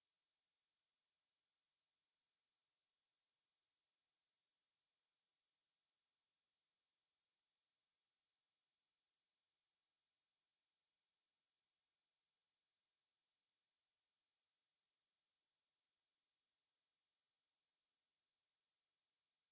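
Steady pure sine-wave test tone at 4911 Hz, a single high-pitched whistle held at constant level.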